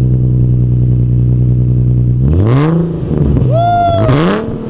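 Infiniti G37's 3.7-litre V6 running through a test-pipe and ISR cat-back exhaust, freshly cold-started: a steady idle, then two throttle blips about two and four seconds in, the pitch climbing and falling back each time.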